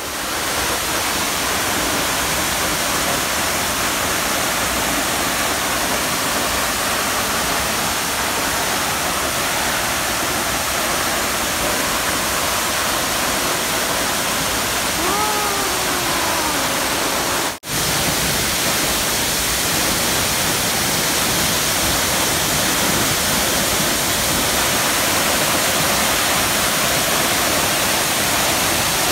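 Waterfall pouring: a loud, steady rush of falling water, broken by a split-second gap about two-thirds of the way through.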